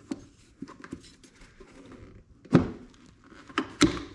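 Small clicks and knocks of parts and tools being handled during ATV disassembly, with two loud sharp knocks in the second half, a little over a second apart.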